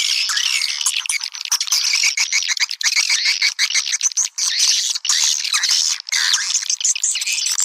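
Swiftlets chattering: a dense, unbroken twitter of many overlapping high chirps and quick clicks, with no low sound at all. It is a swiftlet lure call, the kind played to draw the birds to a nesting house.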